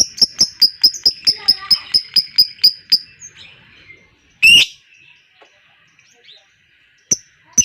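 Lovebird chattering in a long rapid trill (ngekek) of sharp chirps, about five a second, which stops about three seconds in. A single loud harsh squawk follows about a second and a half later, and the trill starts again at the very end.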